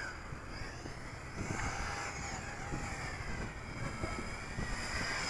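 Wind buffeting the microphone, with the faint whine of the Yizhan Tarantula X6 quadcopter's motors rising and falling in pitch as they speed up and slow down against the gusts.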